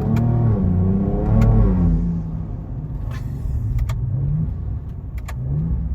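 Ford Ranger Raptor's twin-turbo V6 accelerating hard: the engine note climbs for about a second and a half, drops at a gearshift, then rises briefly again near the end.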